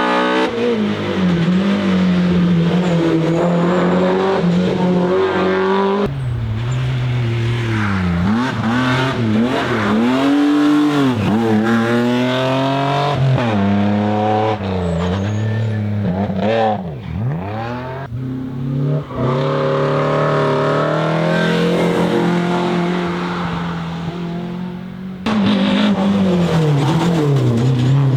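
BMW M3 E30's four-cylinder S14 engine revving hard under racing load, the pitch climbing through the gears, then dropping and rising again in quick swoops on downshifts and throttle blips. Several clips are cut together, so the engine sound changes abruptly a few times.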